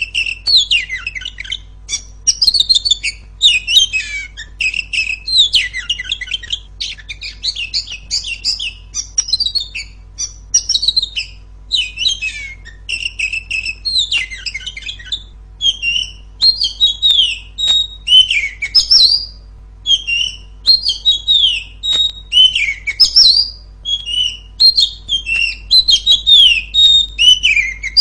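Female Oriental magpie-robin (kacer) singing a loud, unbroken stream of quick, varied whistles, chirps and trills, with short gaps between phrases, over a faint steady low hum.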